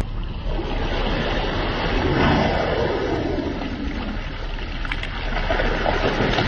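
Rushing water: a steady wash of noise, with a sound falling in pitch about two seconds in.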